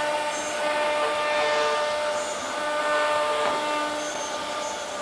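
CNC router machining a birch-plywood speaker cabinet: a steady whine over a noisy hiss, with shorter tones starting and stopping as the machine moves.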